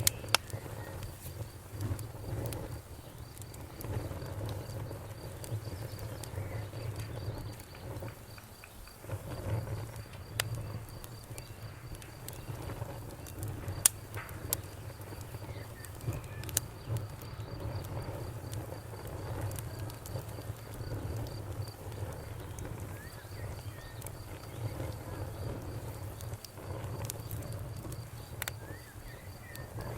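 Campfire burning: a low rumble under scattered sharp crackles and pops, the loudest about 14 seconds in. A cricket chirps in a steady, fast, high pulse that drops out briefly about halfway through.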